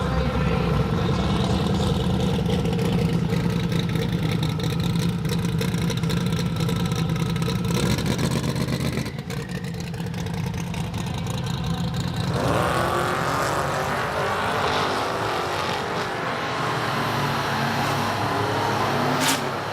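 Drag racing car engines running loud with a rapid crackle, then, about twelve seconds in, a rising engine note as a car accelerates hard.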